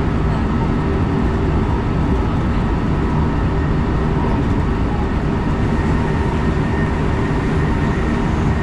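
Electric express train running steadily at speed, heard from inside the carriage: a constant rumble of wheels on rail with a faint, even whine.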